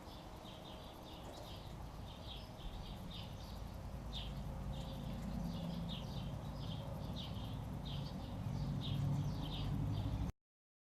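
Small birds chirping repeatedly in quick short notes, over a low rumble that grows louder toward the end; the sound cuts off suddenly near the end.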